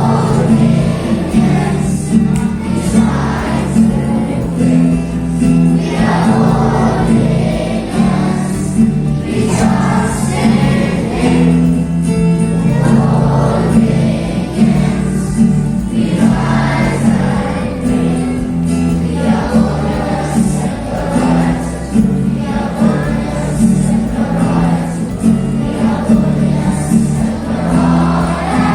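A group of voices singing an anthem in chorus over held instrumental notes that change step by step.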